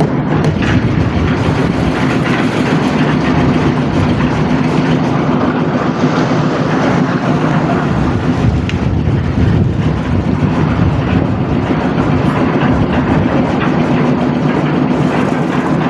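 Engine-driven construction machinery running steadily at concrete work, a constant low hum under dense mechanical noise.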